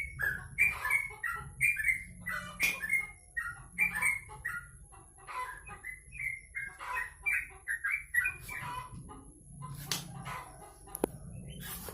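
Caged songbird chirping in a quick run of short notes, several a second, with the odd sharp click.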